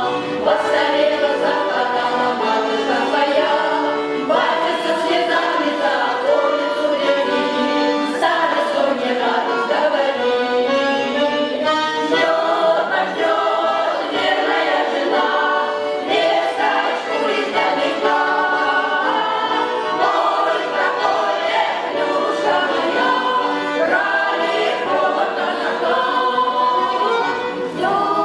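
Cossack folk song ensemble singing in chorus, several voices together in harmony.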